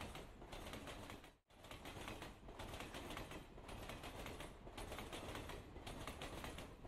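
Faint background noise with soft, irregular clicking, broken by a brief dropout to silence about a second and a half in.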